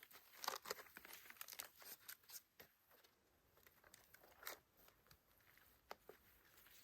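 Faint, irregular crackling and rustling, busiest in the first three seconds, with a few sharper clicks about four and a half and six seconds in.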